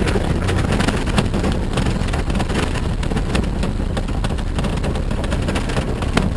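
Jeep driving slowly over a rough forest track, heard from inside the cab: a steady low engine drone with frequent small knocks and rattles from the jolting ride.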